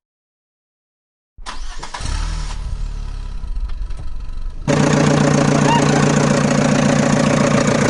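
Silence, then a motor starts abruptly about a second and a half in with a low rumble, and near five seconds in jumps suddenly to a louder, steady running hum with a strong low tone.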